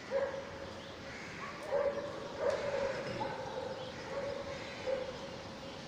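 Parrot chicks giving repeated whining begging calls, a series of short nasal cries about a second apart.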